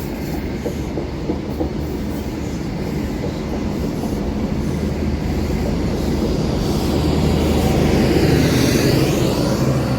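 Train rolling past on the rails, a steady rumble with some wheel clatter that grows louder, peaking about eight seconds in.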